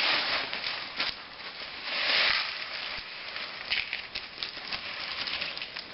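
Crushed dry breakfast cereal being poured from a plastic zip-top bag into a bowl: a crackling, rustling pour that swells about two seconds in.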